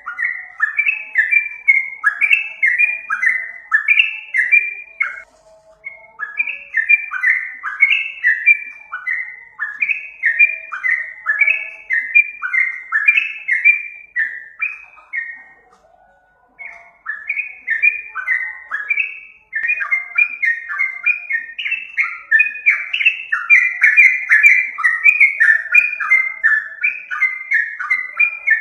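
Yellow-vented bulbul (trucukan) song played as a bird-trapping lure: quick, bubbly chattering phrases repeated again and again, with brief pauses about five and sixteen seconds in.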